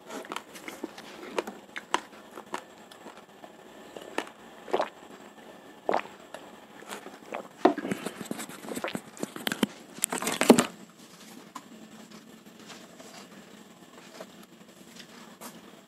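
Raw rice grains cracking and crunching between the teeth as they are chewed, a scatter of sharp, irregular crackles. The crackles grow denser and louder for a few seconds in the middle, end with a louder clatter around ten seconds in, and then stop.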